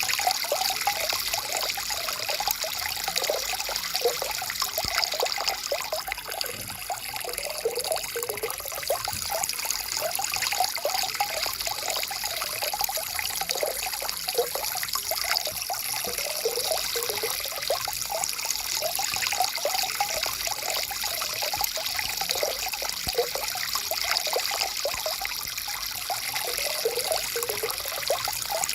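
Small stream trickling and burbling steadily over stones, a continuous hiss of running water with many small irregular gurgles.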